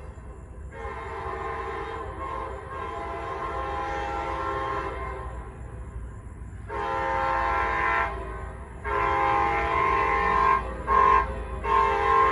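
CSX freight locomotive air horn sounding a chord of several tones: a long, softer blast, then louder blasts in a long, long, short, long pattern, the standard signal for a grade crossing, growing louder as the train approaches.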